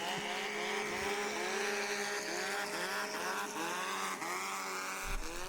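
Twin-turbo longtail racing boat engine running hard at high revs, its pitch surging up and falling back about twice a second.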